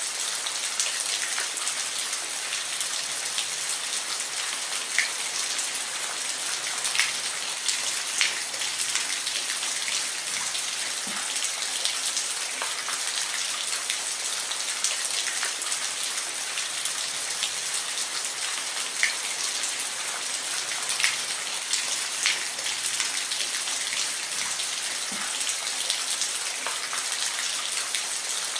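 Steady rainfall: an even hiss of rain with individual drops ticking sharply now and then.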